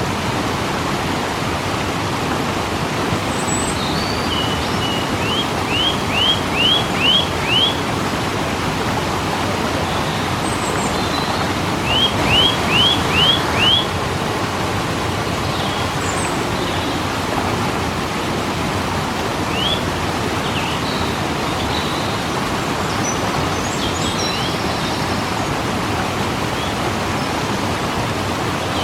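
Waterfall rushing steadily. Over it, a bird gives short rising chirps in two quick runs of five or six, the first about five seconds in and the second about twelve seconds in, with a few scattered fainter calls later.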